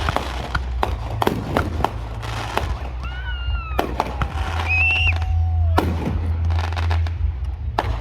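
Fireworks going off in a rapid string of bangs and crackles, with whistling tones near the middle.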